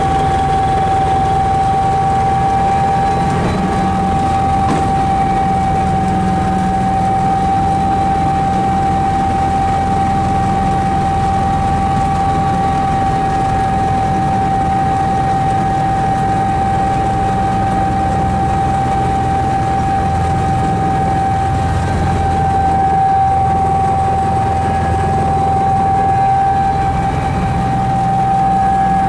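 Helicopter in flight heard from inside the cabin: a steady engine and rotor din with a constant high-pitched whine over a low rumble.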